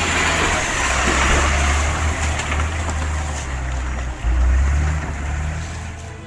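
Kamaz truck's engine running hard with a deep drone under a steady rushing, churning noise as it ploughs through mud and water. There is a brief dip in the drone a little after four seconds in.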